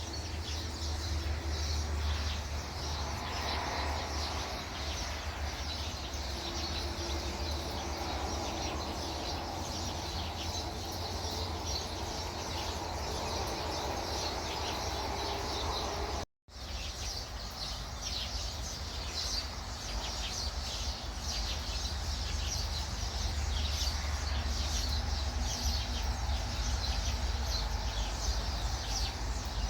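Outdoor ambience of birds chirping steadily over a low rumble of wind on the microphone. The sound drops out completely for a moment about halfway through.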